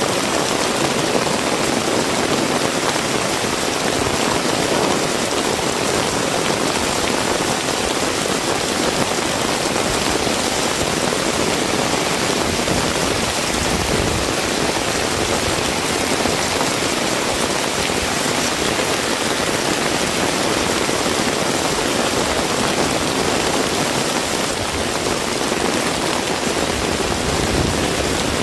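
Heavy rain falling steadily: a dense, even hiss with no breaks or sudden sounds.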